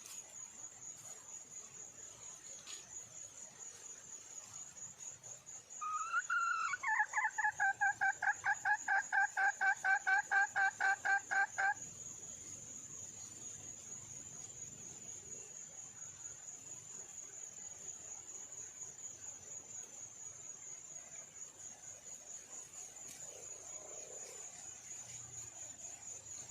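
Red junglefowl hen calling: a short rising-and-falling note, then a fast, even rattle of about a dozen pulses a second for some six seconds. A steady high insect trill runs underneath.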